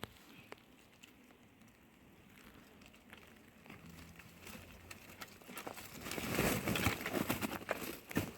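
Crinkling, crackling rustle with scattered small clicks, growing much louder for a couple of seconds from about six seconds in.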